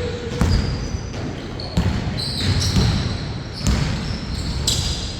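Basketball bouncing on a court, giving irregular thuds about once a second, with short high squeaks in between.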